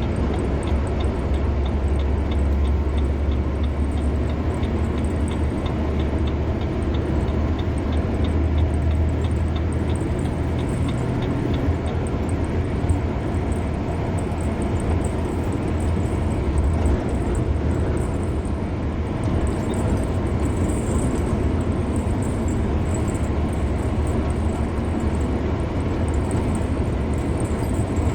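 Car driving at highway speed: steady road and tyre noise over a deep low rumble.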